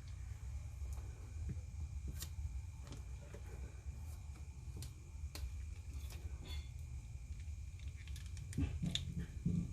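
Scattered light clicks and taps from handling a plastic action figure and its packaging, with a louder cluster of clicks and soft knocks near the end, over a steady low hum.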